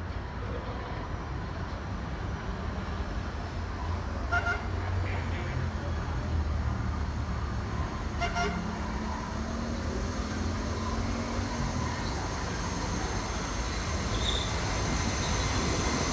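Rumble of an approaching vintage subway train that grows louder toward the end, with two short horn toots, about four and eight seconds in.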